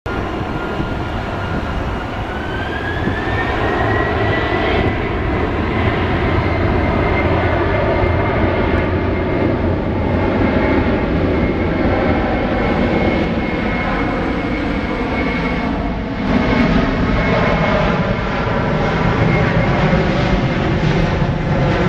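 Boeing 737-900ER's CFM56-7B turbofan engines spooling up for takeoff: a whine rises in pitch over a couple of seconds, then holds steady over a loud, continuous jet rumble.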